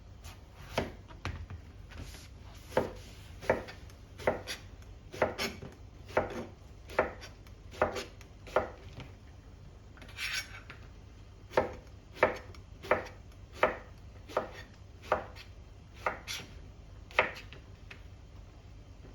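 Kitchen knife chopping on a cutting board in slow, separate cuts, about one or two a second, with a short pause and a brief rustle about halfway through.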